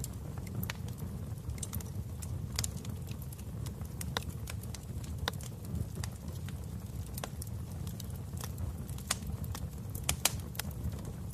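Wood fire crackling in a fireplace: irregular sharp pops and snaps over a steady low rumble, with a louder pair of pops a little after ten seconds in.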